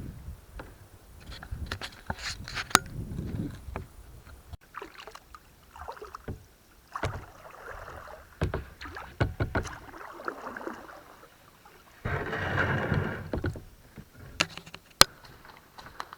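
Kayak paddling: irregular splashes and drips of water off the paddle blades, with sharp knocks between strokes and one longer, louder wash of water about twelve seconds in.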